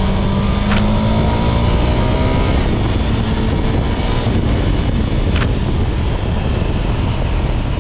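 Wind buffeting and overloading a GoPro's built-in microphone on a moving motorcycle: a loud, steady roar of wind noise that buries the engine, which comes through only as faint tones underneath. Two short sharp crackles cut through, about a second in and again near five seconds.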